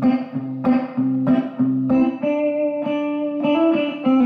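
Electric guitar playing a country lick over a G-to-C chord change: several picked notes in the first couple of seconds, then a held C note on the first fret of the B string that marks the arrival of the C chord.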